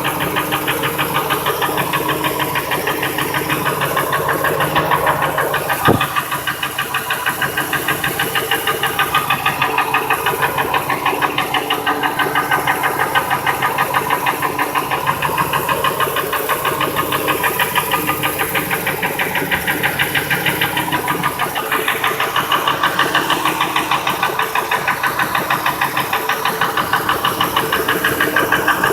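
Ford 5.4L Triton 2V V8 running with a steady, rhythmic knock from the engine. The owner finds the knock unchanged when each injector and each coil is unplugged in turn. A single sharp thump stands out about six seconds in.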